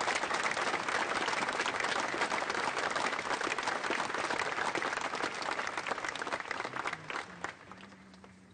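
An audience applauding: dense clapping that dies away near the end, with a few last separate claps.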